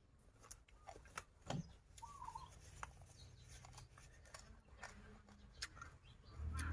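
Quiet eating sounds: scattered sharp clicks of a spoon and fork against a plate while someone chews raw vegetables and salad. There is a short chirp about two seconds in and a low thump near the end.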